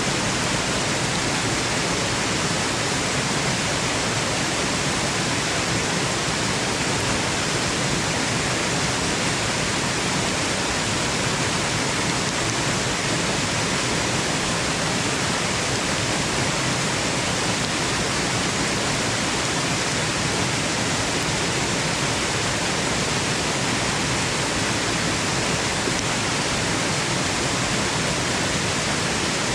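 Waterfall noise: a dense, steady rush of falling water with no change in level, used as white noise for lulling a baby to sleep.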